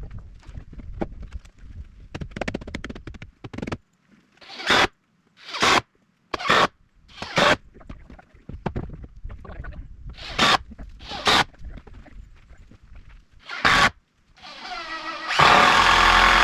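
A string of short, sharp scraping strokes on wood, about one a second, from hand tool work. Near the end a power drill runs steadily for about two seconds.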